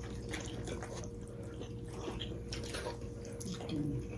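Quiet eating sounds: scattered small clicks and taps of people eating momos and soup, over a steady low hum.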